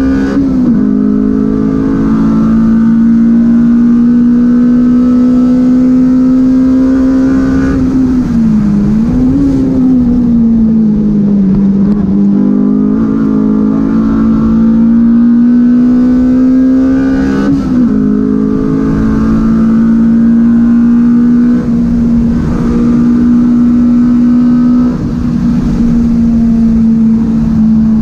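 Nissan SR20VE 2.0-litre four-cylinder in a Sentra race car, heard from inside the cabin, running hard at high revs on track under steady load with road noise beneath. Its pitch swoops down and back up about a third of the way in, jumps again about two-thirds in, and falls away near the end as the car brakes.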